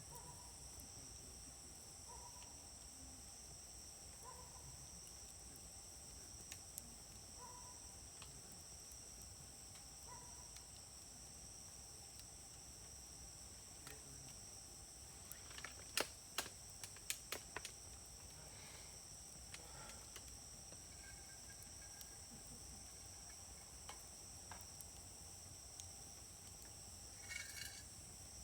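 Wood fire burning in a Uniflame fire grill, crackling with a quick run of sharp pops about halfway through and a few more near the end. Behind it, a steady high-pitched trilling of insects.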